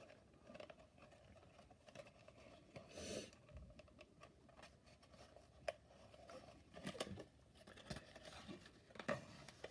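Faint rustling and scraping of thin cardboard being handled and worked, tabs pushed into slots, with a few small clicks and snaps scattered through.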